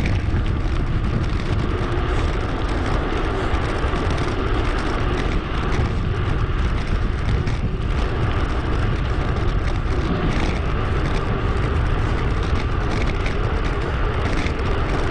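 Steady wind rush and rolling road noise from a bicycle being ridden, heard on the action camera's microphone.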